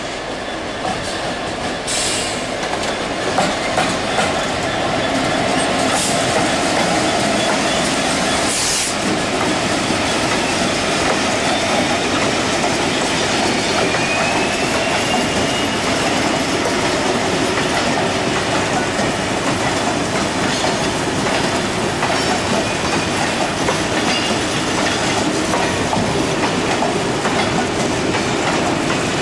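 EWS Class 66 diesel locomotive, its two-stroke V12 engine running, hauling a freight train of open wagons past; the wagons follow with a steady rumble and clickety-clack of wheels over the rail joints, and a brief wheel squeal about halfway through.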